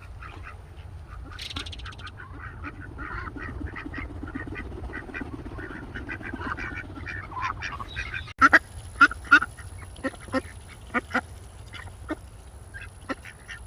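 Pet parrots calling: a run of quick chirps and squeaks, then, after about eight seconds, a string of short, sharp, loud squawks.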